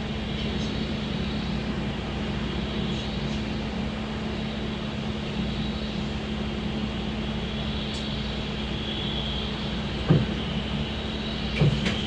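Cabin noise inside a village minibus under way: a steady engine and road hum, with a sharp knock about ten seconds in and another near the end.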